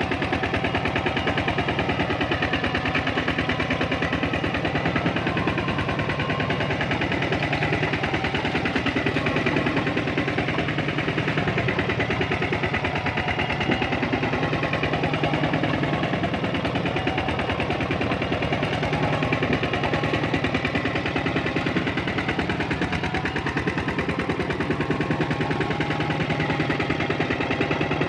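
Tractor engine running steadily, its firing a fast, even train of thuds.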